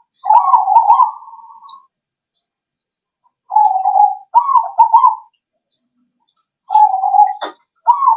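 Zebra dove (perkutut) singing: loud phrases of rolling, trilled coos, three in a row with pauses of a second or two between them. There is a single sharp click near the end.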